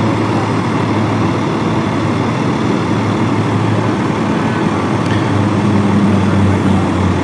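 Steady low engine hum of idling vehicles over a continuous wash of roadway traffic noise.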